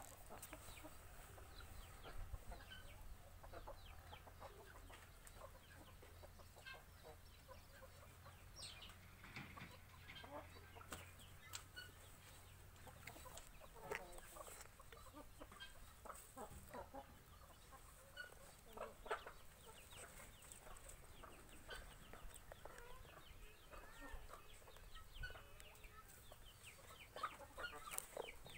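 Faint bird calls: many short, scattered calls, with a low steady hum under them for the first half.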